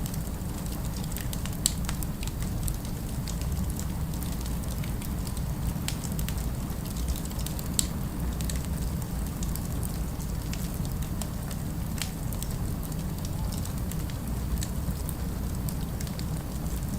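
Log fire crackling: irregular sharp pops and snaps, a couple of them louder, over a steady low rumble.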